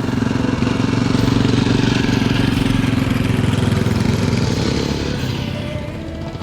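Motorcycle engine running, swelling louder over the first second or two and easing off near the end.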